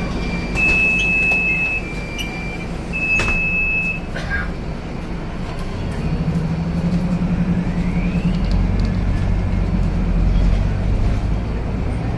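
Scania K250UB city bus heard from on board: the engine running, with a few steady high beeps lasting about a second each in the first four seconds. From about six seconds in the engine pulls harder, with a rising whine as the bus gathers speed.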